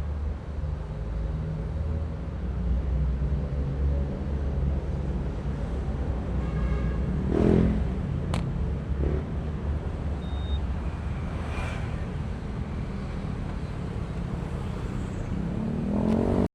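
Honda ADV160 scooter's single-cylinder engine running while riding in traffic, under steady road and wind noise. There is a brief louder swell about seven seconds in, and the engine note rises in pitch just before the sound cuts off.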